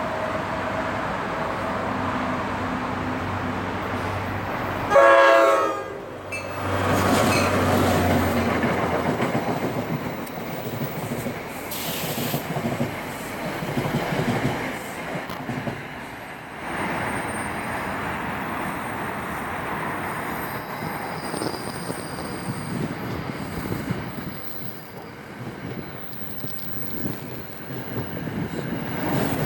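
A train running past on the rails with a continuous rumble, and a short, loud horn blast about five seconds in.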